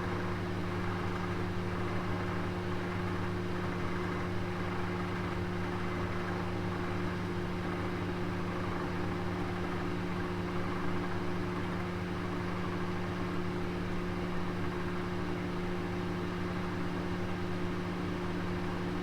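Oven running: a steady, unchanging hum of several low held tones over an even hiss.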